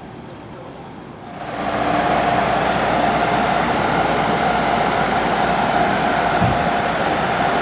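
Amtrak Acela Express electric trainset passing through the station. Its noise rises about a second and a half in, then holds loud and steady, with a steady tone running through it.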